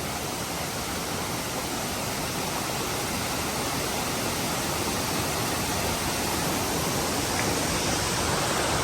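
Waterfall rushing: a steady, even noise of falling water that grows slowly louder.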